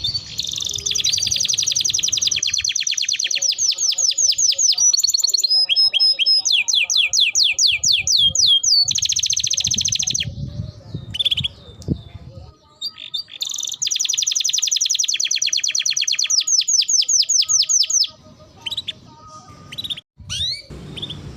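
Domestic canary in full song: long, fast trills of repeated notes, some rising and some falling, broken by short pauses twice.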